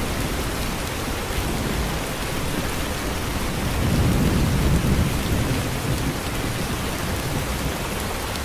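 Sandblasting cabinet blasting abrasive media: a steady rushing hiss, with the low rumble of a gas-engine air compressor underneath, swelling a little about halfway through.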